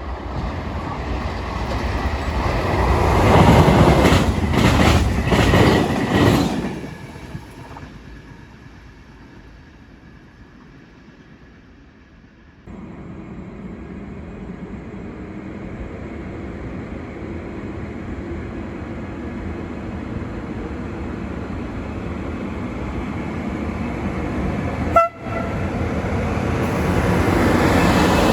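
A train passing through a station at speed, loud for a few seconds with rapid clatter of wheels over rail joints, then fading away. Partway through, the sound switches abruptly to another train approaching, growing steadily louder, with one sharp click near the end.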